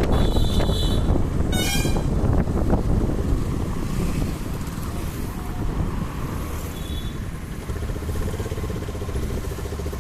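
Wind and road rumble on a moving motorcycle in traffic, with vehicle horns honking: a short beep right at the start, a second, brighter horn blast just after, and a faint short beep about seven seconds in.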